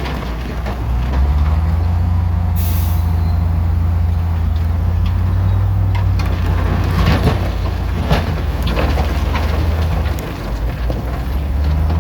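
Heavy diesel construction machinery running with a steady low engine drone, a short hiss of air about three seconds in, and several sharp clanks later on.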